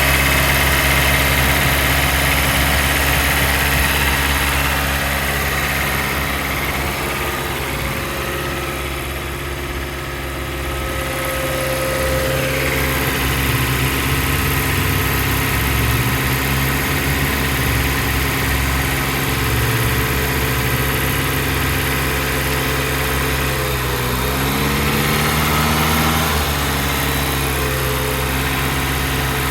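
2017 Dodge Journey engine idling steadily, with a brief rise and fall in pitch a little over three-quarters of the way through.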